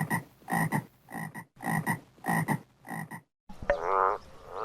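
Frogs croaking: short croaks repeated about every half second, then after a brief break a few seconds in, longer trilled croaks.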